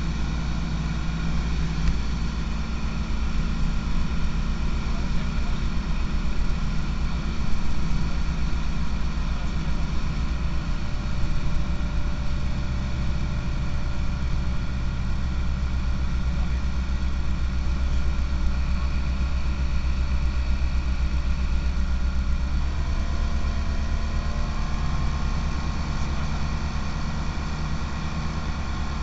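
Light aircraft's engine and propeller running steadily, a continuous hum. About three-quarters of the way through, the engine note shifts to a slightly different pitch and holds there.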